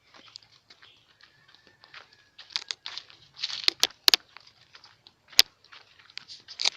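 Dry leaves and twigs crackling and crunching underfoot, irregular, with a few sharp snaps in the middle.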